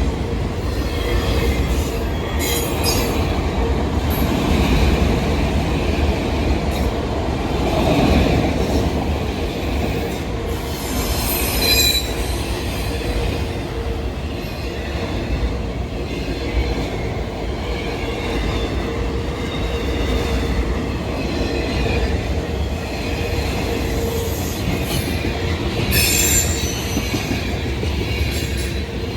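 Norfolk Southern manifest freight train rolling past, its cars rumbling steadily on the rails. Brief high-pitched wheel squeals come three times: near the start, about halfway through and near the end.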